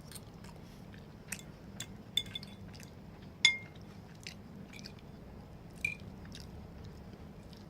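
Close-up chewing and mouth sounds of someone eating a creamy macaroni casserole, with scattered small clicks and one sharp ringing clink about three and a half seconds in.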